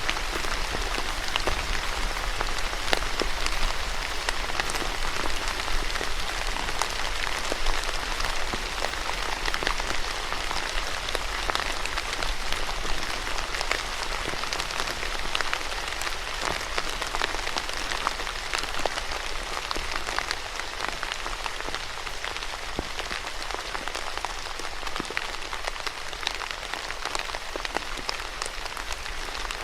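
Steady rain falling on a surface, a dense even patter of individual drops with a faint low rumble beneath.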